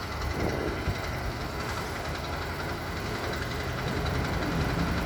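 Motorcycle engine idling steadily, a constant low hum.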